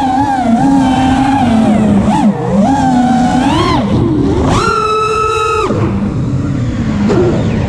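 Brushless motors and props of a 5-inch FPV freestyle quadcopter (T-Motor F60 2500 kV) whining, the pitch sliding up and down with throttle. About four and a half seconds in the whine jumps higher and holds steady for about a second, then drops back.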